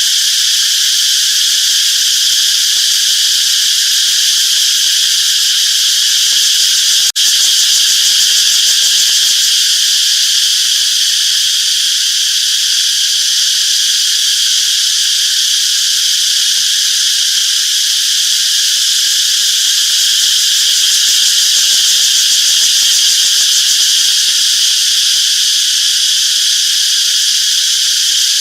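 A dense, steady chorus of cicadas, a continuous high-pitched buzz, with a momentary dropout about seven seconds in.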